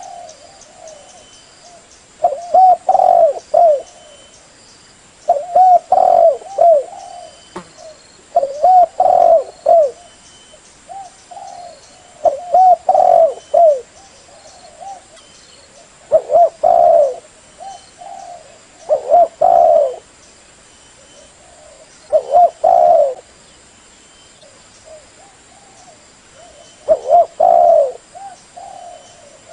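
Spotted dove (chim cu gáy) cooing: loud multi-note coo phrases repeated about every three seconds. These are decoy calls used to lure wild spotted doves.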